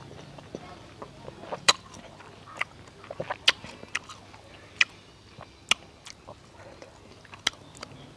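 A person eating mak mao berries: chewing with sharp, irregular smacks and crunches, roughly one every second.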